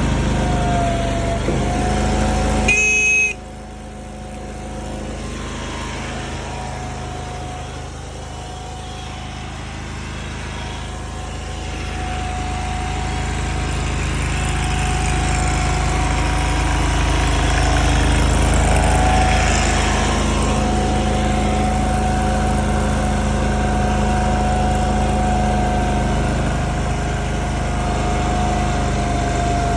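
Small gas engine of a mini skid steer running steadily, with a steady whine over it. A short high beep sounds about three seconds in; right after it the engine gets quieter, then grows gradually louder again over the next ten seconds or so.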